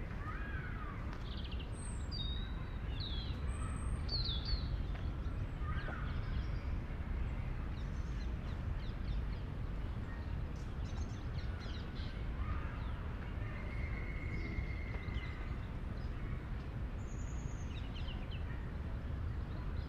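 Outdoor city-park ambience: a steady low rumble of distant city traffic, with birds chirping and calling in short scattered bursts over it.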